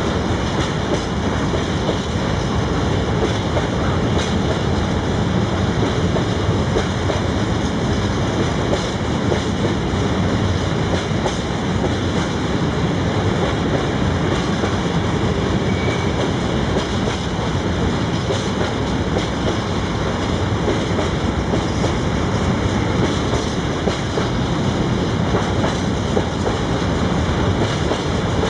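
Freight train wagons rolling past, with a steady, unbroken rumble and wheel noise on the rails.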